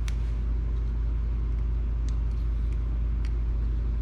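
A steady low hum under a few small sharp clicks, spaced about half a second to two seconds apart, as the small plastic and metal parts of a Nintendo Switch kickstand are handled and worked loose.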